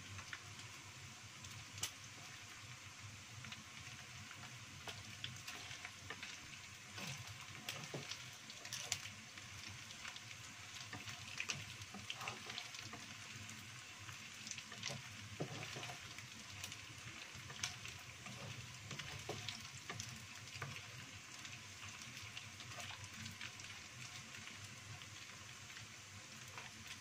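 Small dried anchovies sizzling and crackling steadily in hot oil as they fry toward golden. A wooden spatula scrapes and taps in the pan now and then.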